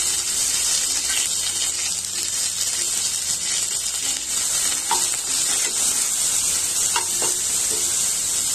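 Chopped onion, green chilli and curry leaves sizzling in hot oil in a nonstick kadai: a steady frying hiss, with a spatula stirring through it.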